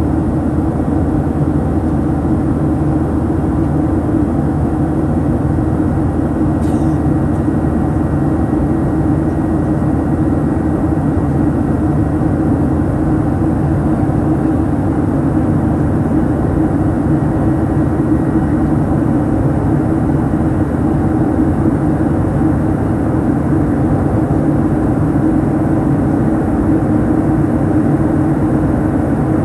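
Steady cabin drone of a Boeing 737-900 climbing: engine and airflow noise, strongest in the low range and unchanging throughout.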